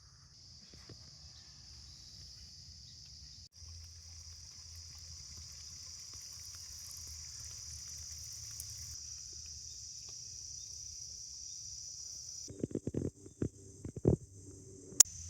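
Steady high-pitched chorus of crickets trilling. Near the end there are a few dull knocks and one sharp click.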